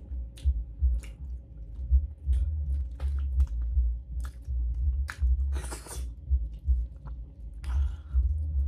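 Close-miked chewing of fufu and egusi soup eaten by hand, with many small mouth clicks and a couple of longer wet mouth sounds. A steady low bass rumble runs underneath.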